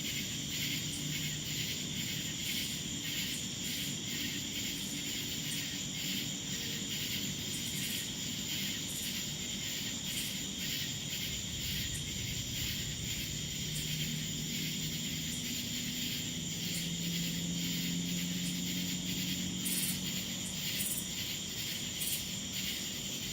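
Crickets chirping in a steady, evenly pulsing night chorus, with a faint low hum about halfway through.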